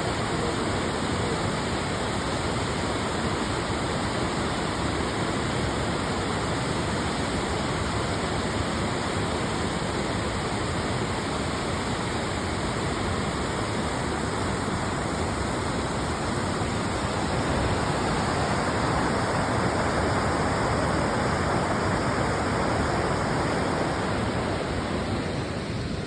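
Rushing water, a steady, even rush with no break, a little louder for a while in the second half.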